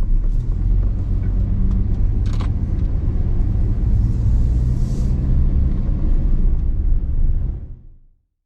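Pickup truck on the move: a steady low engine and road rumble that fades out near the end.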